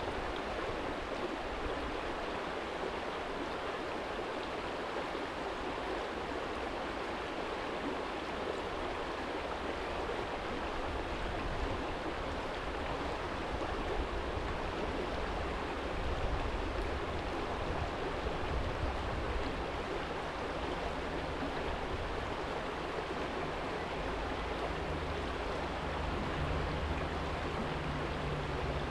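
Small shallow stream flowing and splashing over a stony bed, a steady rushing burble. A low rumble, like distant traffic, grows a little stronger near the end.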